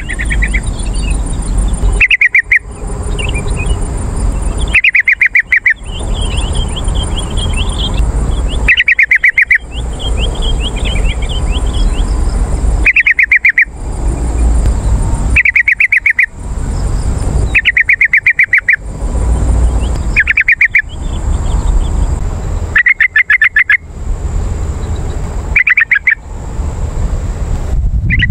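Yellow-vented bulbul (trucukan) singing: short, loud, rapid trilled phrases repeated about every two to three seconds. Fainter, higher chirps and a low rumble fill the gaps between phrases.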